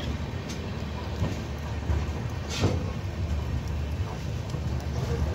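Passenger train rolling slowly into the station, heard from aboard: a steady low rumble of the wheels on the rails with a few short clacks and knocks, the loudest about two and a half seconds in.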